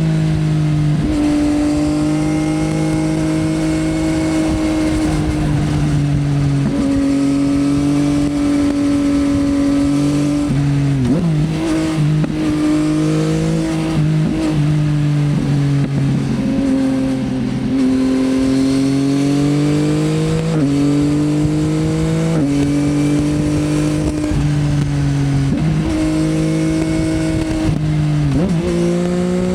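2024 Yamaha XSR900's inline three-cylinder engine through an Akrapovič Racing Line exhaust, ridden under way. The engine note holds or climbs, then steps down at each gear change. Twice, about a third of the way in and near the end, the revs drop away and pick up again.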